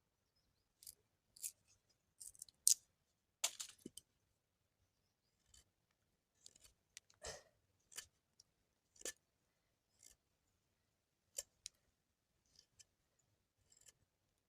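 Irregular short, sharp clicks and snips, about a dozen spread unevenly, the loudest in the first half.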